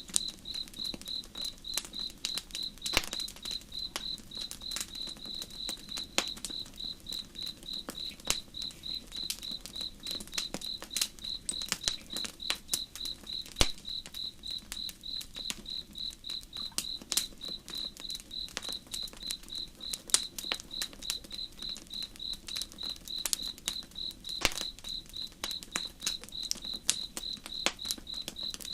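A cricket chirping in a steady, even rhythm, a few chirps a second, over a campfire crackling with scattered sharp pops and a low rush of flowing water.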